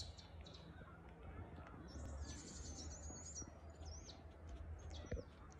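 Faint high-pitched bird chirping and twittering from about two seconds in, lasting a couple of seconds, over a low steady rumble. A short knock comes near the end.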